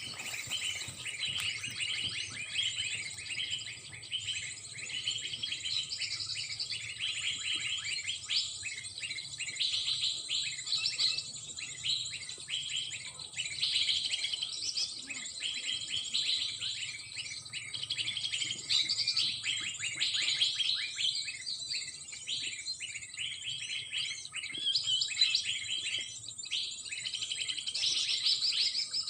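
Small birds chirping and twittering continuously in quick runs of short calls, over a steady high insect buzz.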